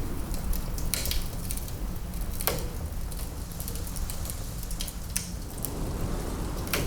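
Wood fire in a fireplace crackling, with several sharp pops, the loudest about two and a half seconds in and near the end, over a low steady rumble.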